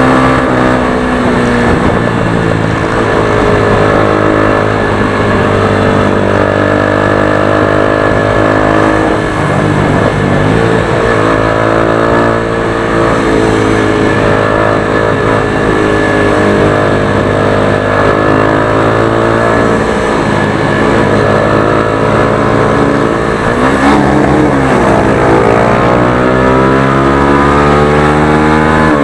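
Motorstar Xplorer Z200S motorcycle engine under way, its pitch climbing as it accelerates through the gears and dropping back several times, at about ten, twenty and twenty-four seconds in, as it shifts or rolls off the throttle.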